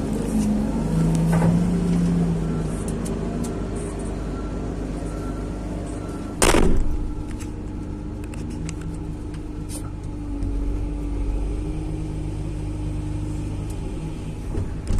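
Tracked excavator's diesel engine and hydraulics running under work, the pitch of the drone shifting as the load changes. A single sharp, loud knock about six and a half seconds in.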